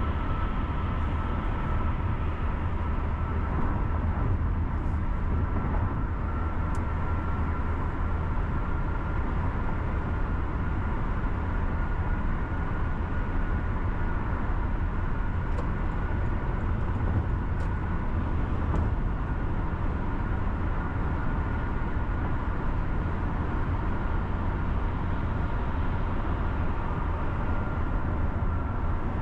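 A car driving at steady speed, with constant low road and tyre rumble and a faint steady whine above it.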